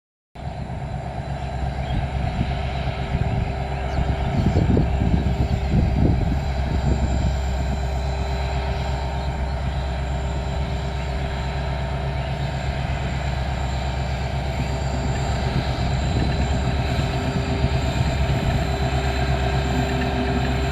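Passenger train running: a steady low rumble with constant mechanical tones, and a stretch of heavier clattering a few seconds in.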